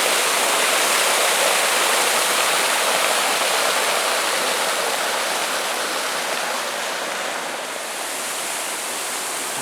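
Waterfall rushing: a steady, even wash of falling water that eases slightly about two-thirds of the way through.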